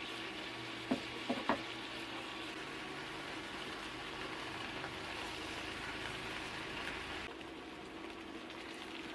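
Food frying in a hot pan, a steady sizzle with a few sharp clicks about a second in; about seven seconds in the sizzle turns softer and duller.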